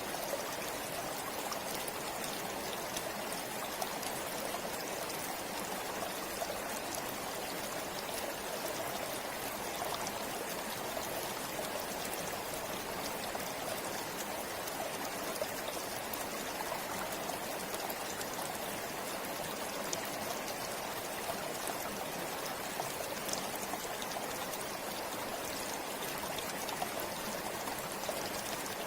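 River water flowing over rocks: a steady, even rush with small splashes and trickles.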